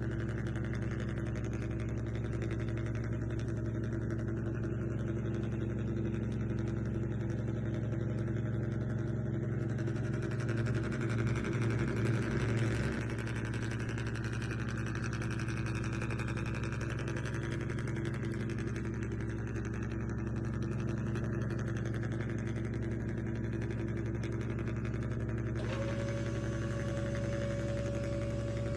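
Idling engine sound of a remote-control bus or truck, a steady low drone that swells and pulses briefly about eleven seconds in.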